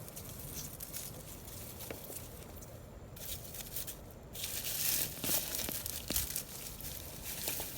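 Rustling, crackling and tearing of potato plants and soil being pulled up and handled by hand, with a louder burst of rustling about halfway through.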